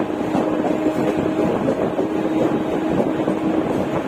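Mumbai suburban electric local train running, heard from inside the coach: a steady rumble of wheels on the track with a faint steady hum, and wind noise on the microphone.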